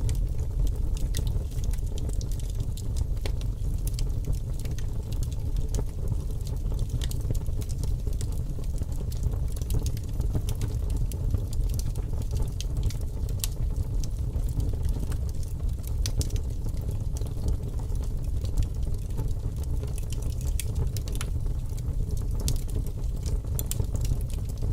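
Fire crackling: a steady low rumble of flames with scattered sharp pops and crackles throughout.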